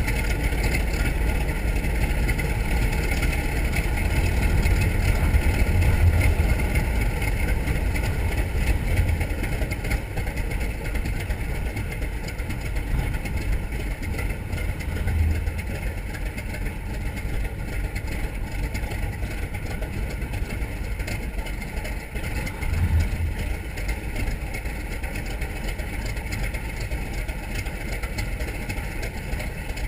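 Grumman TBM Avenger's Wright R-2600 twin-row radial engine running steadily with a deep, dense rumble, briefly swelling louder a few times.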